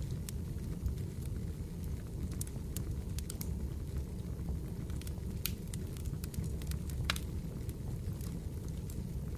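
Fireplace crackling: a steady low rumble of burning wood under scattered sharp pops and crackles.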